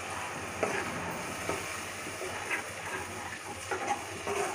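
Yogurt and spice masala sizzling in oil in a kadai while a steel spoon stirs it, with a few light knocks and scrapes of the spoon against the pan.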